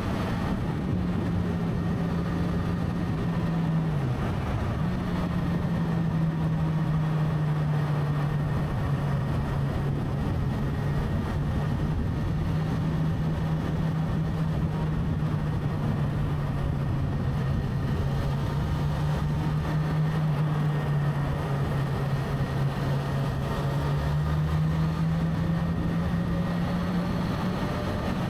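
Motorcycle engine running at a steady cruising pace along with wind and road noise. The engine note dips briefly about four seconds in, then holds steady, rising a little near the end.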